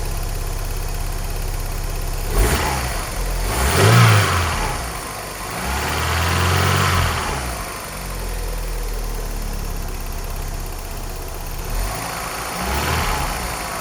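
Vauxhall Cavalier's C20NE 2.0-litre four-cylinder engine idling shortly after a cold start and revved up and back down several times, the strongest rise about four seconds in. It runs smoothly, with no sign of the tapping the seller had reported on cold starts.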